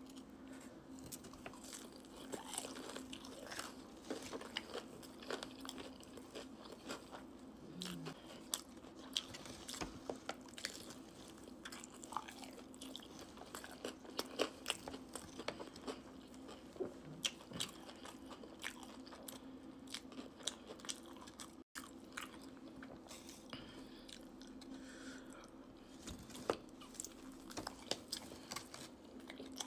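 Close-miked mouth sounds of someone biting and chewing sauced, breaded boneless chicken wings: repeated short crunches and wet smacking chews. A steady low hum runs underneath.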